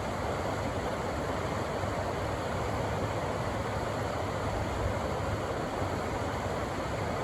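River water rushing over rocks: a steady, even roar of whitewater.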